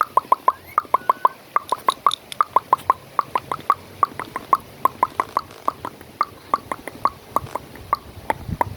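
A rapid, even series of sharp clicks, about five a second.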